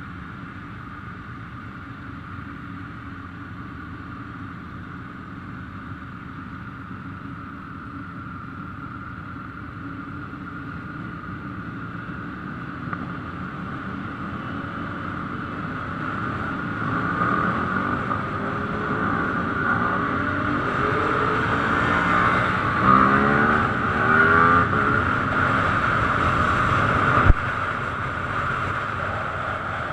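Ducati motorcycle engines running, growing steadily louder from about halfway in, with several revs rising and falling in pitch as bikes come closer. There is a single sharp crack near the end.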